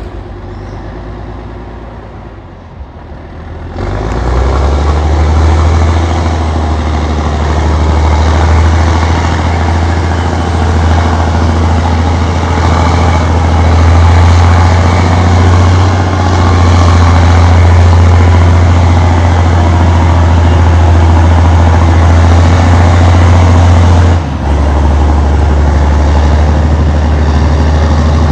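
Allis-Chalmers HD-21 crawler dozer's diesel engine, quieter for the first few seconds, then coming up loud about four seconds in and running hard and steady with a deep hum. About 24 seconds in the sound dips sharply for a moment and its tone changes slightly, then it runs on loud.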